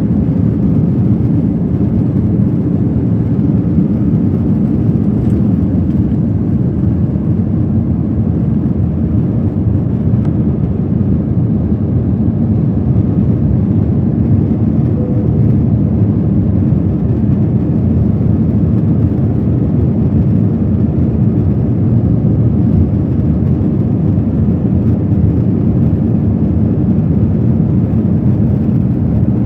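Airbus A321 cabin noise heard from a window seat: a steady, even low rumble of the jet engines and air.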